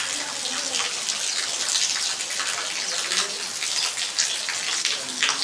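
Steady heavy monsoon rain falling, a dense patter of drops.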